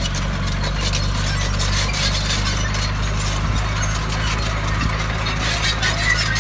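Bulldozer's diesel engine running steadily under a dense, irregular metallic squealing and clanking typical of crawler tracks and undercarriage on the move.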